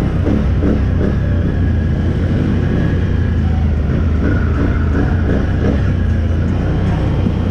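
Side-by-side UTV engine running steadily with a deep, continuous rumble.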